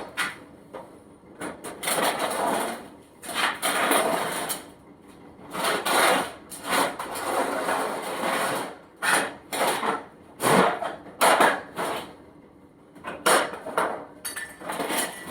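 Irregular rustling, scraping and knocking of hands working in a plastic mouse enclosure and its bedding, in uneven bursts with a few sharper knocks in the second half.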